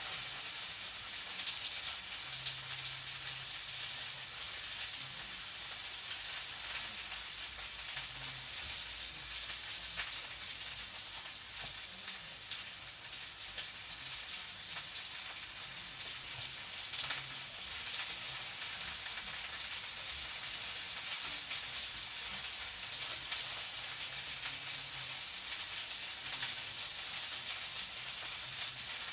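Food frying in a pan: a steady sizzle with fine crackles throughout.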